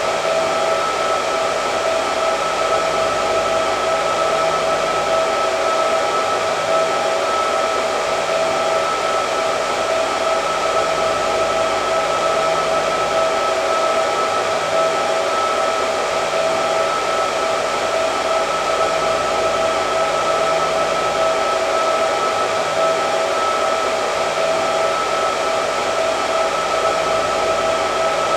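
Hair dryer running steadily, a continuous rush of air with a steady motor whine in it.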